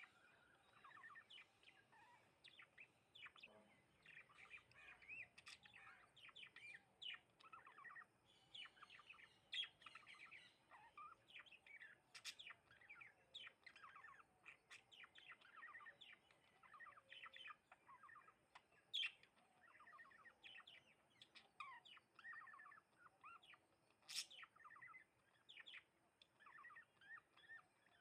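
Sparrows chirping continuously in many short, overlapping chirps, with a sharp click every few seconds.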